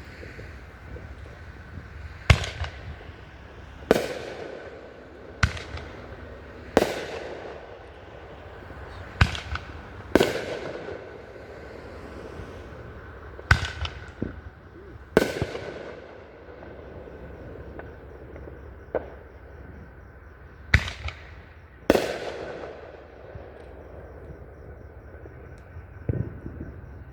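Fireworks bursting one after another in a display: about ten sharp bangs at uneven intervals, each followed by a fading rumble.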